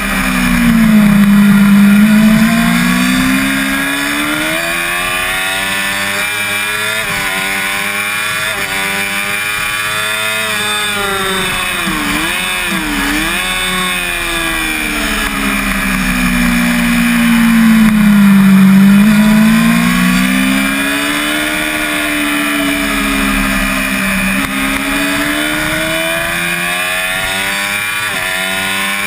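Onboard sound of a 5EB Yamaha YZF-R6's 600 cc inline-four racing engine at high revs, the pitch climbing and dropping as it pulls through the gears, with wind rush over the bike. The sound swells louder twice, about a second in and again past halfway.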